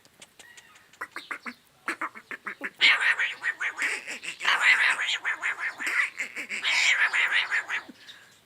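Parrot making a rapid run of harsh, raspy squawks and chatter, loud from about three seconds in until near the end, after quieter short clicking sounds.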